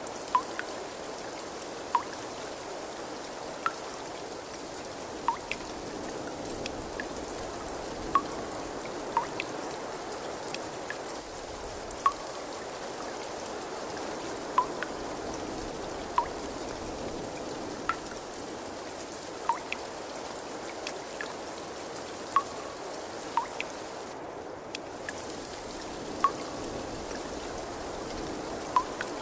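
Steady trickle of running water, with single water drops plinking at irregular intervals of about one every second or two, each a short, clear plip that stands out above the flow.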